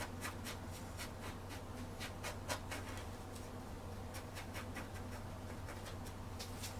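Bristle brush scrubbing and dabbing thinned oil paint onto a canvas: a run of short, irregular scratchy strokes, several a second, over a low steady hum.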